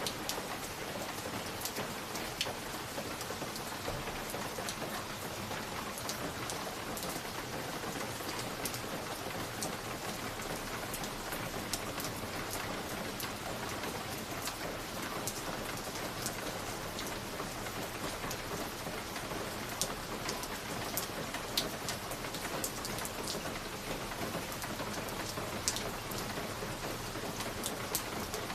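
Fireplace fire crackling: a steady hiss with frequent small sharp pops and crackles scattered throughout.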